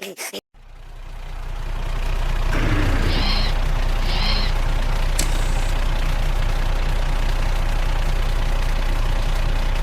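Truck engine sound effect running steadily, fading in over the first couple of seconds. Two short high chirps come a little after three and four seconds in.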